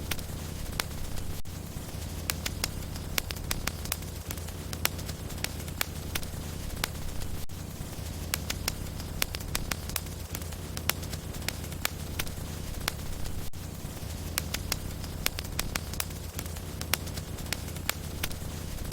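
Wood logs burning in a fireplace: a steady low rumble of flames with sharp crackles and pops, several a second.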